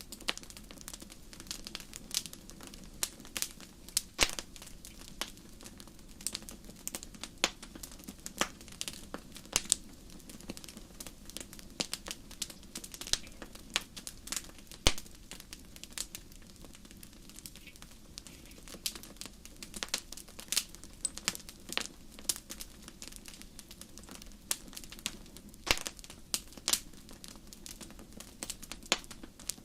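Wood fire burning in a fireplace, crackling with irregular sharp pops, several a second, over a steady low background of the flames.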